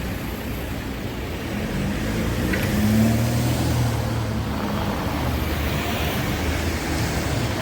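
Street traffic: a motor vehicle engine running, its low hum swelling and passing a few seconds in, over a steady roadside rumble.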